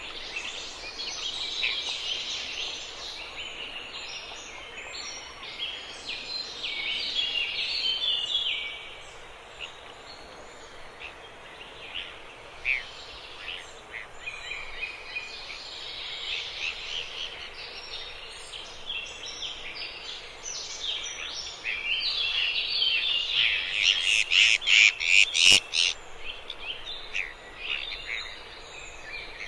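A flock of birds calling in a dense chorus of short, high calls over a faint steady background hiss. The calling swells loudest late on, with one sharp click at the peak.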